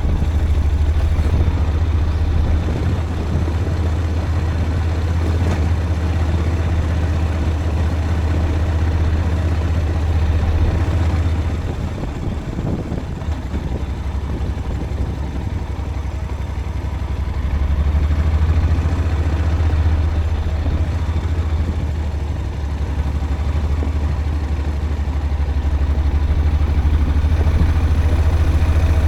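Vehicle engine and road noise while driving: a steady low drone that eases off for a few seconds mid-way, then picks up again.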